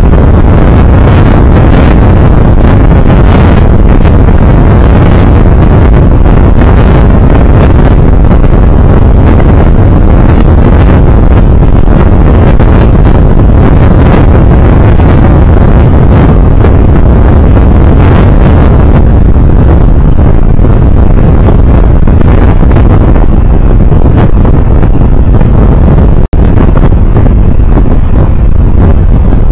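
Loud, steady wind rushing over the microphone along with road and engine noise from a moving vehicle. It is unbroken except for a momentary dropout about 26 seconds in.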